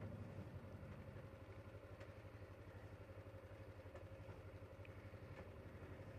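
Kawasaki Ninja 500R's parallel-twin engine idling in neutral, a low, steady, even pulse.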